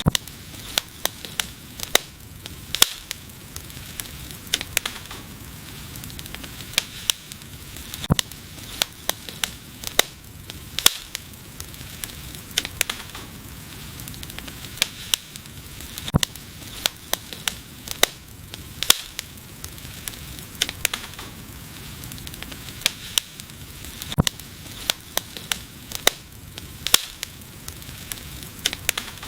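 Wood fire crackling, with sharp irregular pops several times a second over a steady hiss and a low rumble of the flames.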